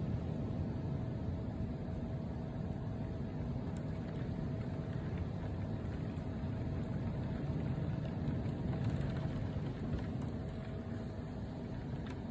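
Summer storm: a steady, unbroken wash of low noise, with a faint steady hum above it.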